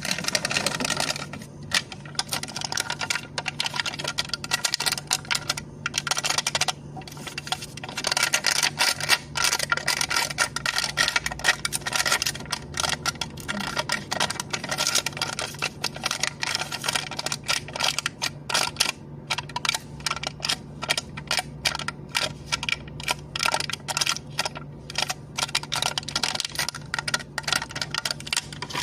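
Rapid tapping and clicking on a cup lid, many light clicks a second in an uneven run, over a low steady hum.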